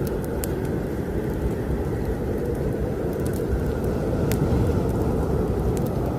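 Strong wind blowing steadily with a deep, rumbling rush, over scattered sharp crackles from a wood fire in a fireplace.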